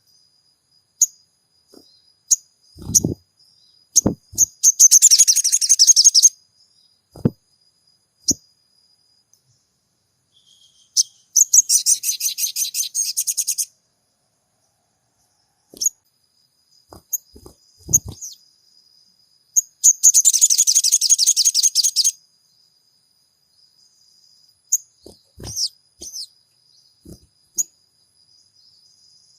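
Sogon bird calls played as a lure: short sharp chirps and a thin, steady high whistle, broken by three rapid, harsh chattering trills of about two seconds each. A few soft low knocks fall in between.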